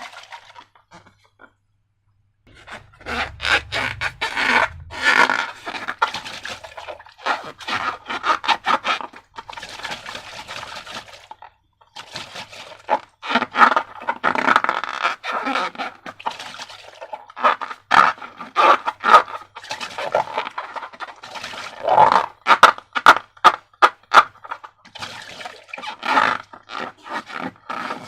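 Irregular scraping and crunching noises from slime and balloon materials being handled and worked. They come in uneven runs with short pauses, after a near-silent second or two at the start.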